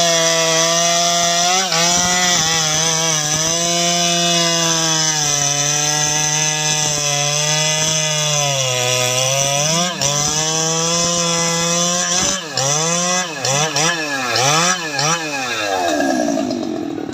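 Jonsered 2095 Turbo two-stroke chainsaw running at full throttle and cutting into teak wood, its pitch held high and steady, sagging briefly under load about nine seconds in. Over the last few seconds the throttle is blipped up and down several times before the engine drops back toward idle.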